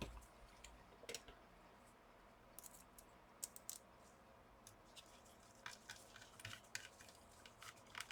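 Faint, scattered light clicks and taps of the laptop's metal cooler assembly being handled and seated onto the board over fresh thermal paste.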